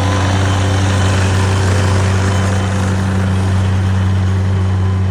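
An engine running steadily at idle: a loud, unchanging low hum with a noisy wash over it.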